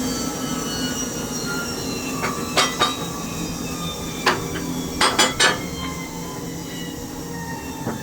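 Machinery running steadily with a hum and slowly falling whining tones, broken by several sharp knocks: a few about two seconds in, one near the middle, three in quick succession a little after, and one near the end.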